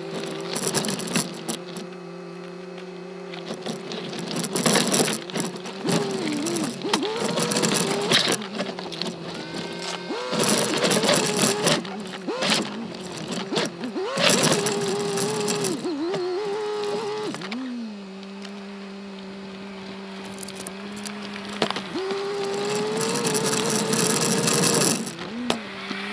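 Turbocharged Subaru Forester's flat-four engine pulling at low speed up a rocky trail, its note rising and falling with the throttle, settling to a steadier lower note for a few seconds past the middle and climbing again near the end. Over it, dense rattling and knocking from the roof-mounted camera shaking on its mount as the car crawls over rocks.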